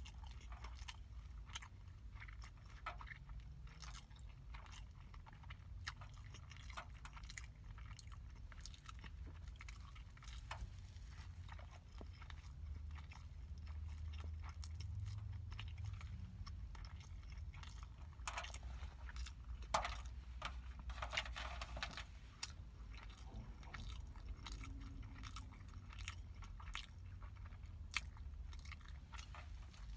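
Close-miked biting and chewing of a hamburger on a soft bun, with many small wet mouth clicks, and a cluster of louder crunchy bites about two-thirds of the way through. A steady low hum runs underneath.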